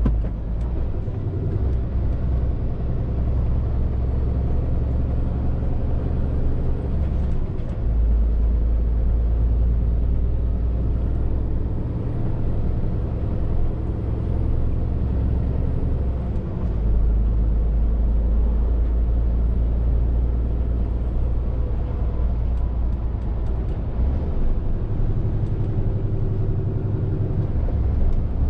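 Scania R450 lorry's diesel engine running as the truck drives along, a steady low rumble whose note changes a few times as engine speed shifts.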